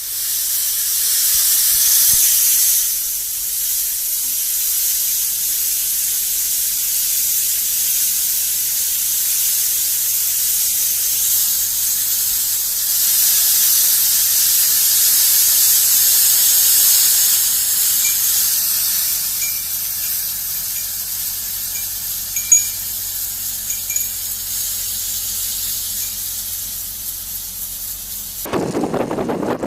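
A loud, steady high-pitched hiss, with a few short high squeaks about two-thirds of the way through.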